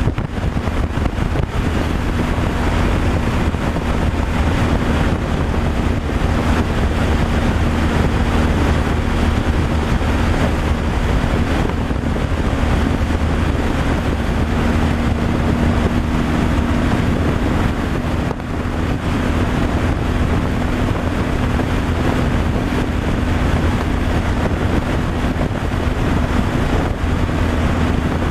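Heavy truck driving on the highway: a steady engine drone with a constant low hum, mixed with road and wind noise.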